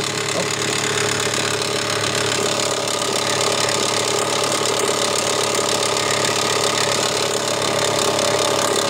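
Mitsubishi Montero 3.5-litre V6 running steadily with a very loud knock from low at the front of the engine that passes for a crankshaft knock. The owner traces it to the serpentine belt tensioner: it has lost pressure, the belt is loose, and the tensioner piece hits a metal part below it.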